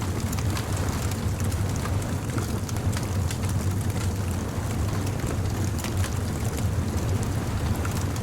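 Bonfire crackling, with many small sharp pops scattered over a steady low rumble.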